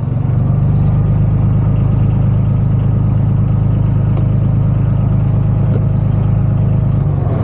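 Motorboat engine running at a steady speed, a loud, even low drone.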